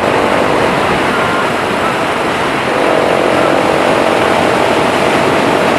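Motorcycle on the move: a steady rushing noise of wind over the microphone, with the engine's drone underneath.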